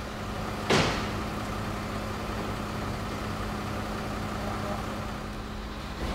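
Pagani Huayra's twin-turbo V12 idling steadily, with one short loud burst of noise about a second in.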